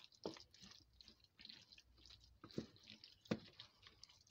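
Faint wet squelching of a spoon stirring a thick mixture of mashed turkey and cream of chicken soup, with a few short clicks of the spoon against the dish.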